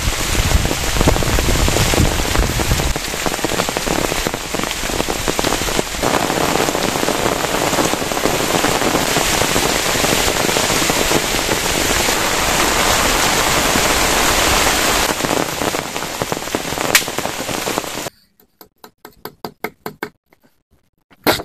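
Heavy rain falling steadily as a dense hiss. About 18 seconds in it cuts off abruptly, and a few faint, scattered taps follow.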